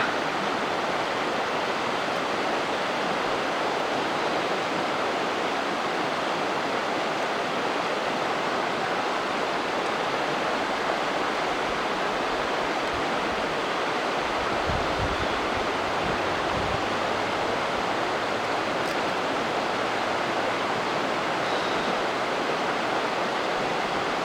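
Steady rush of a waterfall on a mountain river, an even roar of falling water that holds level throughout, with a brief deeper rumble about two-thirds of the way through.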